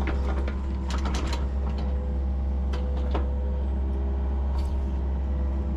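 Yanmar SV40 mini excavator's diesel engine running steadily with a held hydraulic whine, with a few sharp knocks and clatters in the first second and a half and again around three seconds in as the bucket shakes dirt off a pulled stump.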